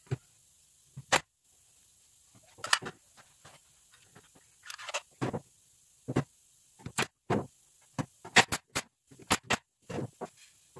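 Irregular knocks and clacks of wooden workpieces being handled and set down, about a dozen sharp ones, with a short scraping sound about five seconds in.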